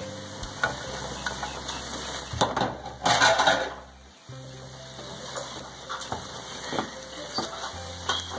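Egg fried rice and diced tomatoes frying in a non-stick pan, stirred and scraped with a silicone spatula, with a louder rush of sizzling and stirring about three seconds in.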